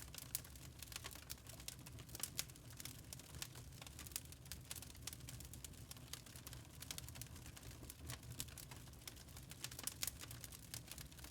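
Log fire crackling in a fireplace: irregular sharp snaps and pops, several a second, over a low steady rumble.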